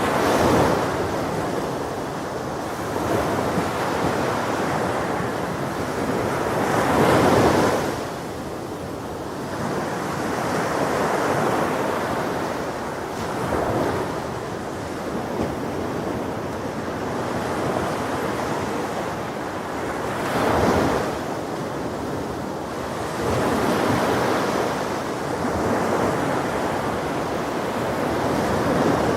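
Ocean waves breaking and washing on a shore, a steady surf rush that swells with each wave every few seconds. The strongest breaks come about a quarter of the way in and again about two-thirds of the way through.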